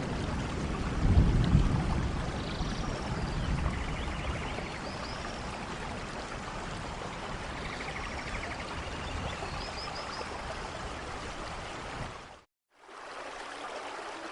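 Steady heavy rain in a forest, with a low rumble of thunder about a second in and faint high chirps over the rain. The sound cuts out completely for a moment near the end, then the rain resumes more quietly.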